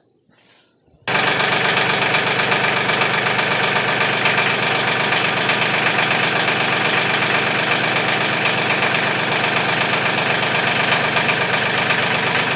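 Mahindra 1526 compact tractor's diesel engine running steadily while the front-end loader is lowered. It cuts in abruptly about a second in.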